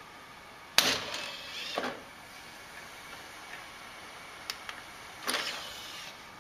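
A desktop computer's DVD drive: a pair of sharp clicks from the eject button, then about a second of mechanical whirring as the tray opens. A similar mechanical noise comes about a second in.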